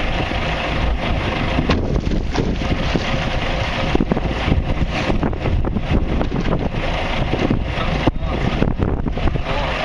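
Wind buffeting the microphone aboard a fishing boat at sea, a steady rushing noise broken by scattered irregular knocks and thumps.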